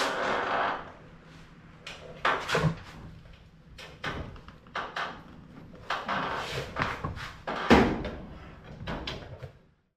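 Metal tool clanks and scraping in irregular bursts as a wrench turns a ball joint into the control arm of a 1969 Plymouth Fury's front suspension. The sound cuts off suddenly near the end.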